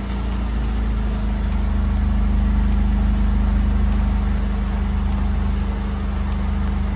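A car engine idling steadily with a constant low hum.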